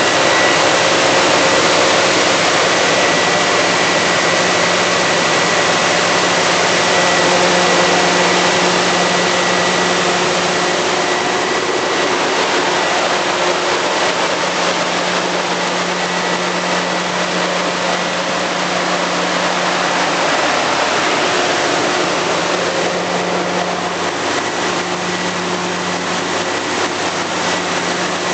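An engine running steadily at a constant speed, a dense, even noise with a steady hum and a faint high whistle running through it.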